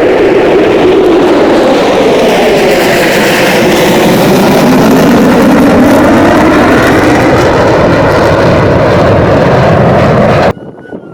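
Loud jet engine noise with a slowly shifting pitch, which cuts off suddenly near the end.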